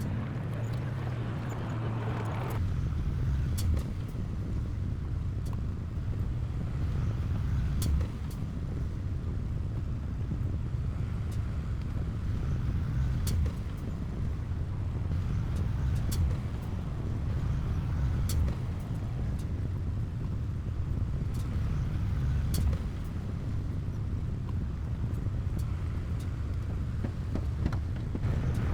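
Heavy diesel engine of earthmoving equipment running steadily with a deep drone, with sharp metallic clicks every few seconds. A higher part of the engine sound drops away a couple of seconds in.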